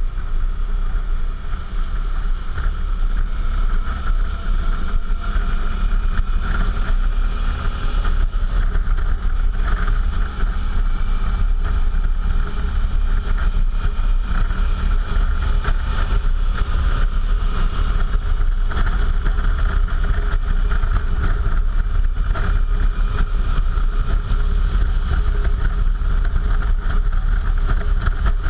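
Suzuki V-Strom motorcycle running at a steady cruise, its engine drone mixed with heavy wind rush on the camera microphone.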